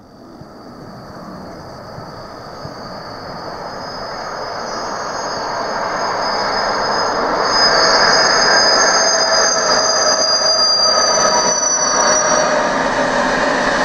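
Electric-hauled passenger train approaching and passing at speed, its rumble growing steadily louder for about eight seconds and then holding loud. A pair of high thin whining tones rides over it, strongest in the middle, sinking slightly in pitch and fading out near the end.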